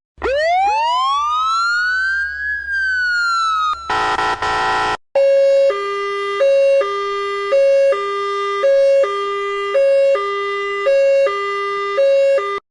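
Emergency vehicle sirens: a wailing siren sweeps up steeply and then slowly falls, a short harsh blast follows about four seconds in, then a two-tone hi-lo siren alternates between two notes about once a second.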